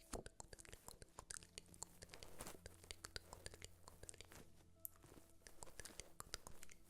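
Soft, close-miked ASMR trigger sounds: a quick, irregular run of small clicks and crackles, faint overall.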